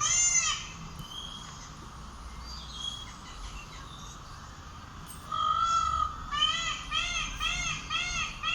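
A bird's loud, harsh calls, each rising and falling in pitch. One call comes at the start and a longer one a little past the middle, after a quieter stretch with faint chirps. From about six seconds in, a rapid series of about three calls a second follows.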